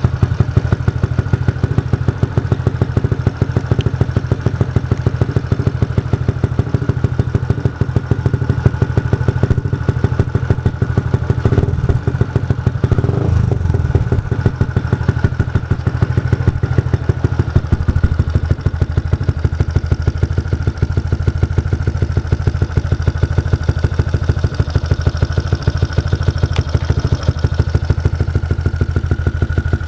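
Yamaha Jupiter MX 135's single-cylinder four-stroke engine idling steadily through an aftermarket R9 exhaust silencer, a fast, even run of exhaust pulses.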